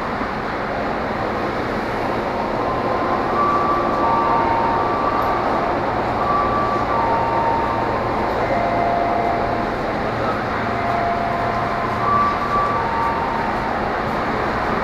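KRL Commuter Line electric commuter train running, a steady rail noise with short whining tones at several pitches coming and going.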